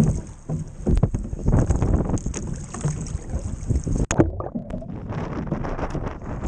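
Wind buffeting the microphone over water splashing and slapping around a surf ski as it is paddled through windy, choppy water. There is a sharp knock about four seconds in.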